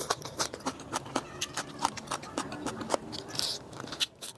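Close-mic eating sounds: irregular crunching and chewing clicks, several a second, with a brief hissy slurp or suck about three and a half seconds in.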